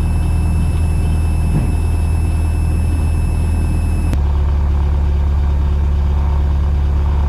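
Van's RV-8's piston engine running steadily at low power, heard through the cockpit audio on the landing rollout. About four seconds in, a high steady whine cuts off and the low engine hum changes pitch.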